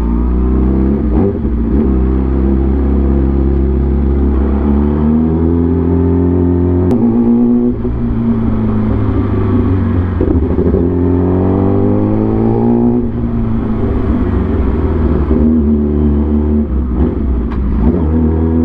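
Vehicle engine accelerating through the gears, its pitch climbing and then dropping back at each gear change, about three times.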